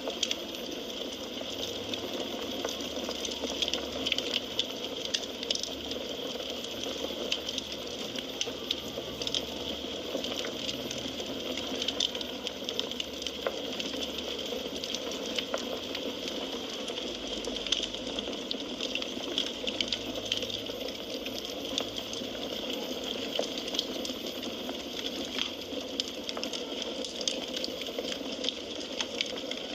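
Firewood burning in a fireplace: a steady hiss with frequent small crackles and pops.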